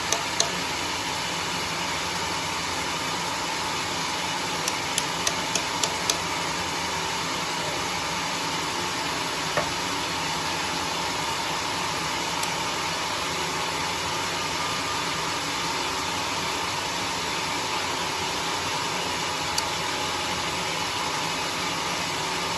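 Homemade sawmill machinery running steadily, a constant noisy drone with a faint steady tone. About five seconds in there is a quick run of six sharp ticks, and single knocks come near ten seconds and near the end.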